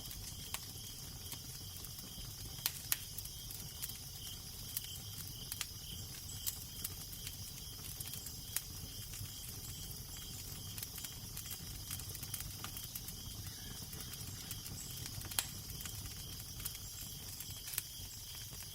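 Crackling fire: irregular sharp pops and snaps, a few louder ones, over a steady hiss and a low rumble. A faint, evenly repeating high chirp runs behind it.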